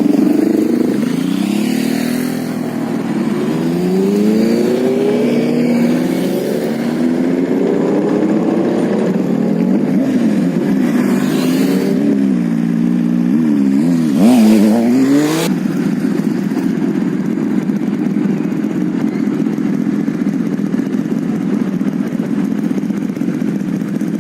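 Motorcycle engines accelerating, their pitch rising in several sweeps, then a sharp rev about fifteen seconds in. After that the engine note settles into a steady running hum.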